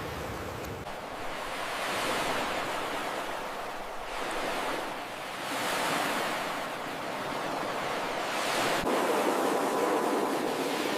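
Ocean waves breaking and washing up on a beach, the surf swelling and easing in several surges, about two seconds in, around five to six seconds in, and again from about eight and a half seconds.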